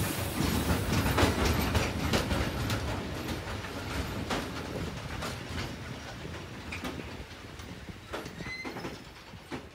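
Freight train of open Eanos wagons rolling past: steady wheel and wagon rumble with repeated clicks of the wheels over the rail joints, growing quieter as the train goes by. Two brief wheel squeals are heard about eight seconds in.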